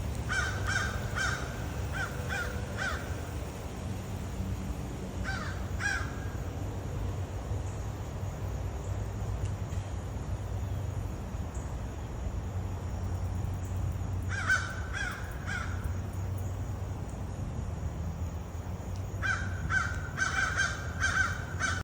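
Birds calling in short, harsh, repeated calls that come in four runs: several at the start, two about five seconds in, three or four around fourteen seconds, and a longer run near the end. A steady low rumble lies underneath throughout.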